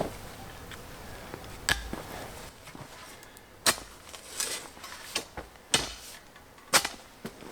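Hand tools striking stony ground in manual roadwork: about six sharp, irregular knocks, spaced roughly a second apart.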